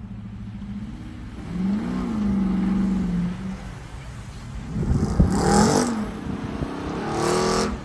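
Dodge Charger's engine revving hard as it accelerates through standing water, with water rushing and spraying against the car in the middle of the run. The revs rise and fall several times and climb again near the end.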